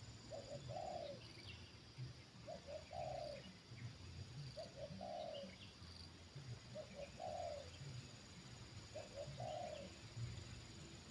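Spotted dove cooing: a short note then a longer one, repeated about every two seconds, five times in all. Faint chirps from small birds can be heard in the background.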